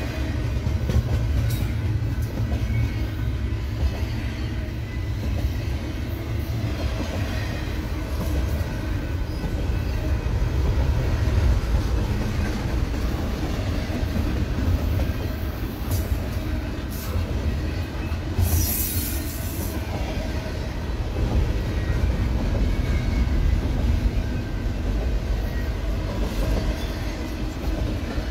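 Double-stack intermodal freight train's container-laden well cars rolling past close by: a steady, loud low rumble of steel wheels on rail with clattering over the joints.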